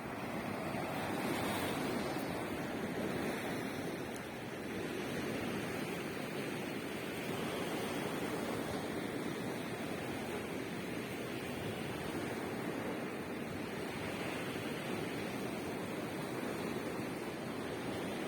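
Sea waves breaking and washing on the shore in a steady surf, swelling and easing every few seconds, with some wind on the microphone.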